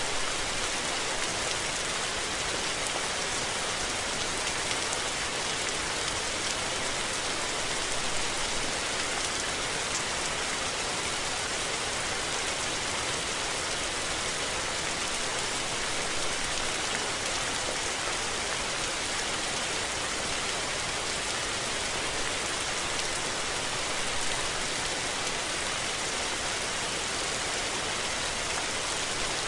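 Steady rain falling, an even, unbroken hiss of drops on surfaces with no thunder.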